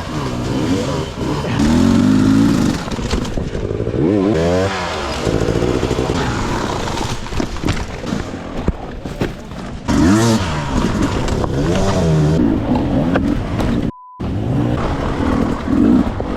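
Dirt bike engine revving up and down over and over as the rider works the throttle on rough terrain, with abrupt changes between clips. About fourteen seconds in, the sound drops out briefly and a short steady beep plays.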